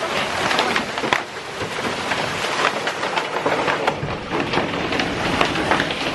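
A heavy hailstorm with rain: a dense, steady hiss of rain, broken by many sharp clicks and knocks from large hailstones striking hard surfaces.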